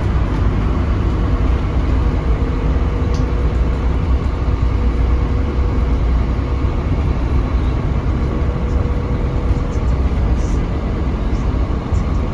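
Scania K310UB diesel bus running, heard from on board: a steady low engine and road rumble.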